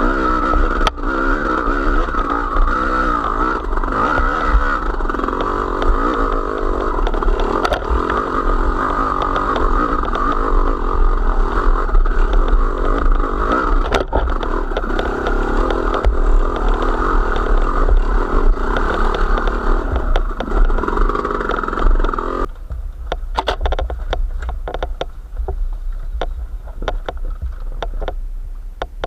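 A small vehicle engine, of the kind on a motorcycle or similar, runs steadily under way with a low rumble beneath it. It cuts off abruptly about three-quarters of the way through, leaving scattered clicks and clatter.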